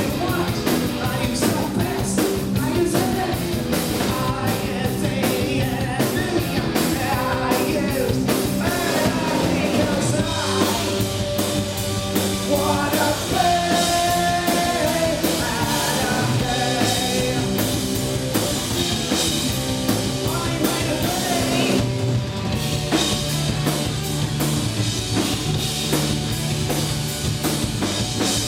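Punk rock band playing live: drums, distorted electric guitars and bass, with a voice singing.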